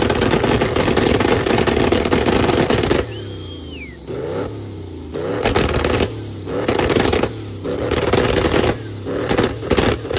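Car engine revved hard and held high for about three seconds, then cut off. It is then revved again in a series of separate blips that come quicker and shorter near the end.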